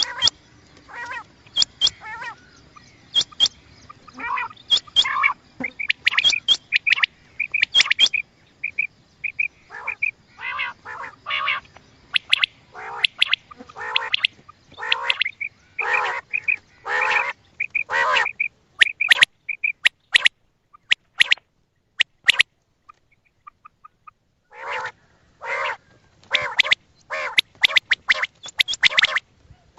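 Quail calling in a quick run of short, separate calls, a recorded lure used for trapping quail. The calls break off for about two seconds roughly three-quarters of the way through, then resume.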